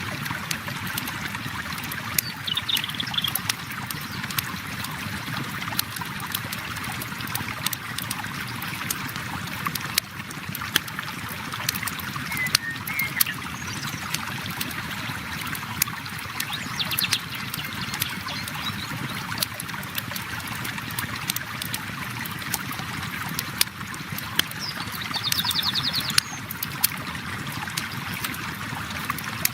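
River water flowing steadily with a campfire crackling and popping over it in irregular sharp clicks. Short high bird chirps and trills come in a few times, about two seconds in, halfway through and near the end.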